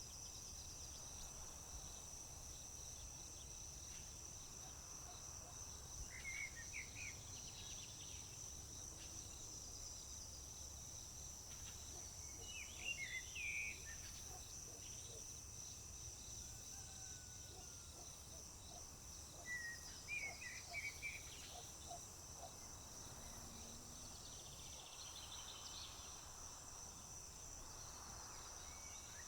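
Insects chirping in a continuous high-pitched trill. Over it a songbird sings short chirpy phrases about every six or seven seconds.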